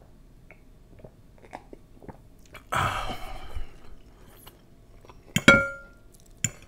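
Close-miked mouth sounds of swallowing and chewing, with a loud breathy rush of air about three seconds in. About five and a half seconds in, a metal fork strikes the ceramic bowl once with a short ringing clink.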